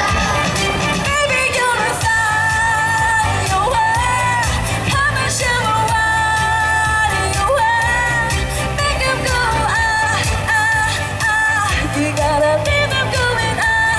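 Pop song sung over a backing track with a steady bass beat, the voice holding long, wavering notes.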